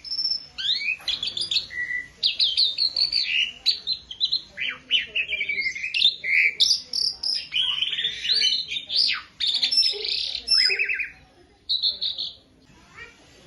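Asian pied starling (jalak suren) singing a fast, varied chatter of whistles, slurred rising and falling notes and rasping calls. The song breaks off near the end, then briefly resumes.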